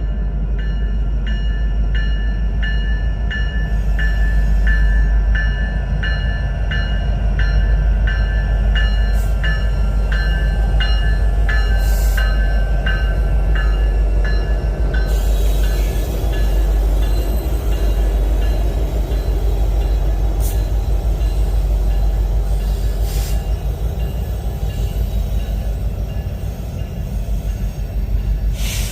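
Loaded BNSF coal train rolling past: a heavy, steady low rumble of the locomotives and cars. A grade-crossing bell dings over and over through the first half, then stops about halfway, leaving steady wheel-on-rail noise with a few sharp clicks.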